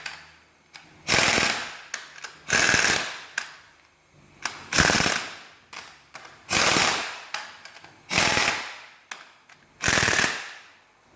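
Ratchet wrench being worked on a fastener in repeated strokes: six bursts of rapid clicking, one roughly every two seconds, each starting sharply and fading.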